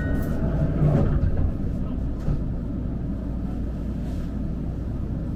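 Steady low rumble inside a Kagoshima City streetcar waiting at a stop, with a brief louder low thump about a second in.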